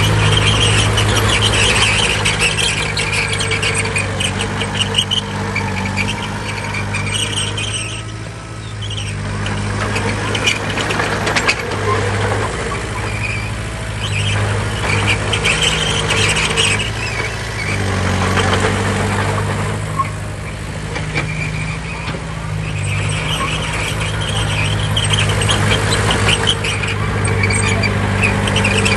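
Heavy earthmoving machine's diesel engine running steadily, with a high squeal that comes and goes over it and eases off twice.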